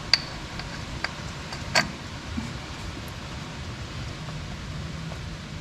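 A few sharp metallic clinks and taps as tools and metal parts are handled, three close together in the first two seconds, over a steady low hum.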